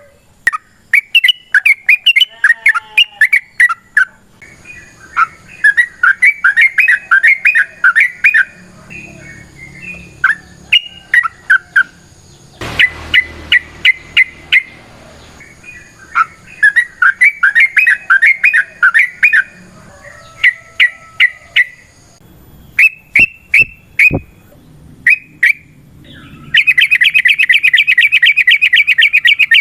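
Yellow-vented bulbul (trucukan) singing: bouts of quick, bubbly chirping phrases separated by short pauses, then a long, very rapid trill near the end.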